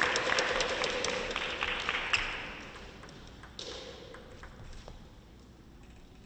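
Arena crowd applauding and cheering, fading out about two and a half seconds in. Scattered light taps and clicks follow, with a soft thud just after the halfway point.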